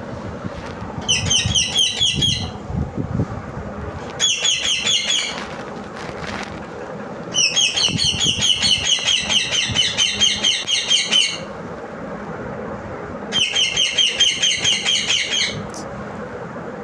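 A parrot calling in four bouts of rapid, evenly repeated shrill chattering notes, about six a second. The longest bout runs about four seconds in the middle, with short pauses between bouts.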